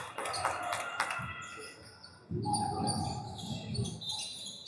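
Basketball bouncing on a gym court during play: a run of sharp knocks in the first second or so, then a sudden low rumble of game noise from a little past two seconds in.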